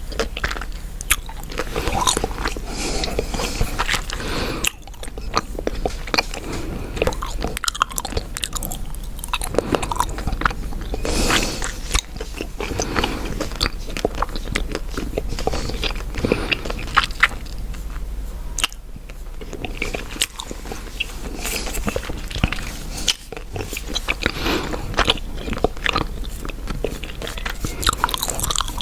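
Chewing gum close to the microphone: continuous wet mouth clicks, smacks and crackles.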